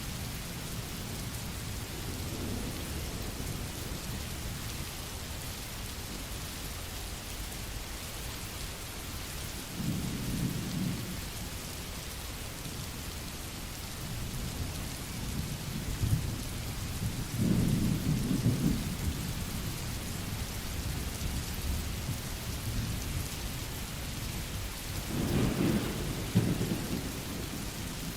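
Steady rain hissing, with low rolls of thunder swelling up three times: about a third of the way in, just past halfway, and near the end.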